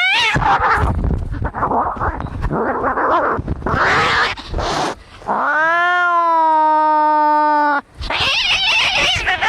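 Cats fighting: about five seconds of harsh, noisy screeching and hissing, then one long, steady, drawn-out yowl lasting about two and a half seconds, then more screeching near the end.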